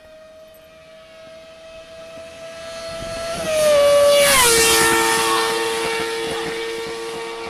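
Kawasaki ZXR 250 inline-four engine held at high revs on a fly-by. It approaches with a high, steady note, grows loud, and drops in pitch as it passes about four seconds in, then recedes on a lower steady note.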